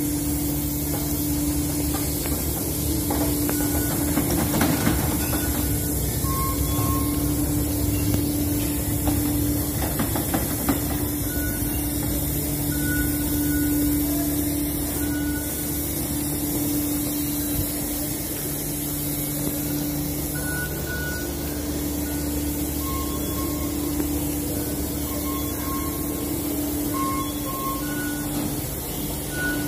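Floor-cleaning robot running: a steady motor hum with hissing, while short electronic beeps sound every few seconds.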